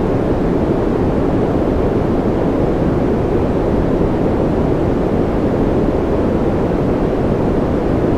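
Steady, unchanging noise for sleep and concentration, deep and rushing rather than hissy, with no separate drops or other events.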